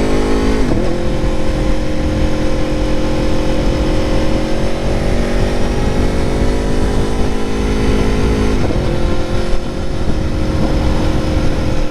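Aprilia Tuono motorcycle engine running under way, its note climbing slowly and dipping sharply twice, about a second in and again near nine seconds. Low wind rumble on the microphone underneath.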